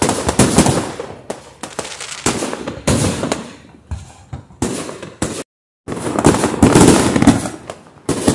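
Fireworks display: a dense string of bangs and crackling pops, heaviest about six to seven and a half seconds in. The sound cuts out completely for about half a second a little past the middle.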